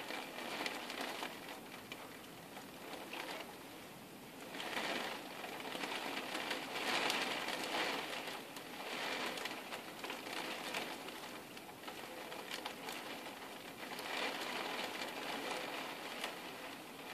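Rain falling on a window pane: a steady hiss of drops with fine ticks, swelling louder several times and easing back.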